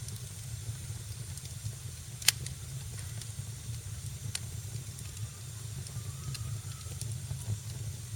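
Wood fire in a fireplace crackling: a steady low rumble and hiss with scattered sharp pops, the loudest a little over two seconds in and another about four seconds in.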